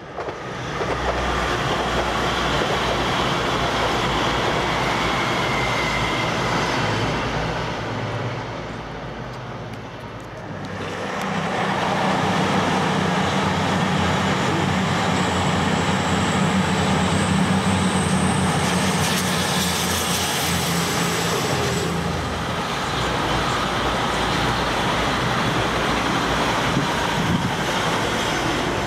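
Diesel passenger trains passing at speed one after another: a steady rush of wheels on rail that eases off briefly about nine seconds in, with a low steady hum through the middle stretch. Near the end an East Midlands Trains Class 222 Meridian unit is passing.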